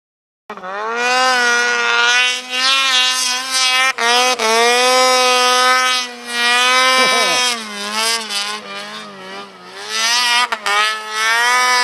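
A high-revving vehicle engine run hard, its pitch rising and falling again and again as the throttle is worked. About seven seconds in, a brief falling tone sweeps down beneath it.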